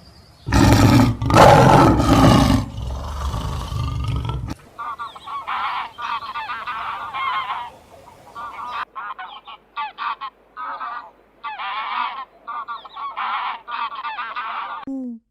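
An animal giving loud honking calls: one harsh, drawn-out call lasting about four seconds, then a long run of short honks in quick succession.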